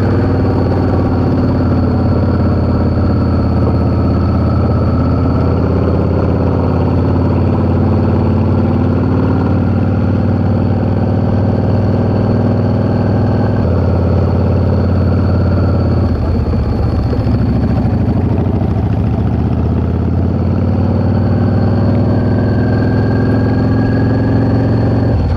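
Yamaha V-Star 650's air-cooled V-twin engine running steadily while riding, heard from the rider's position. Its pitch sags and then climbs again about two-thirds of the way through as the throttle is eased off and reopened.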